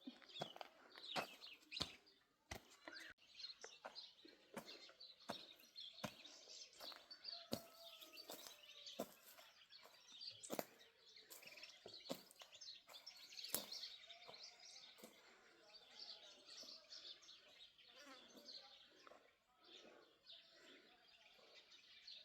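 Small birds chirping, over irregular sharp clicks and snaps that come about once or twice a second and are the loudest sounds.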